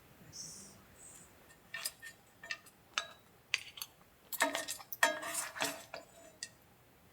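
Tableware being handled: utensils and dishes clinking and knocking, with a short run of clattering about four to six seconds in.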